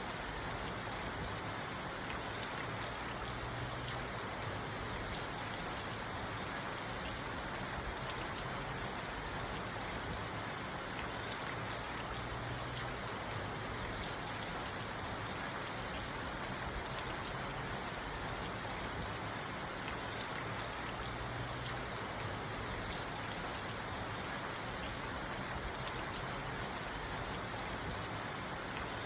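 Steady rain falling on a parked car, heard from inside the car, with individual drops ticking through a constant hiss.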